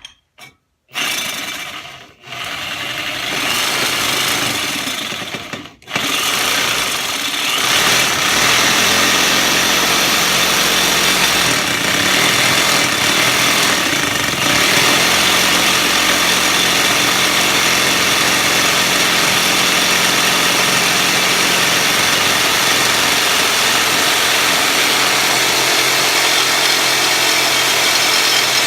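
Power tool cutting a steel exhaust pipe: it runs in two short spurts, then steadily through a long continuous cut.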